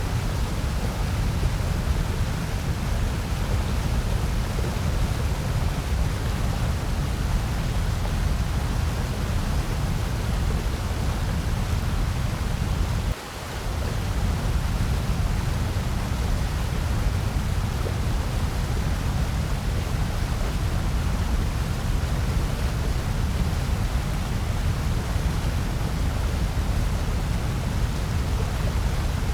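Steady generated noise, a white-noise track, an even hiss with most of its weight in the low end. It drops out briefly about halfway through and then resumes.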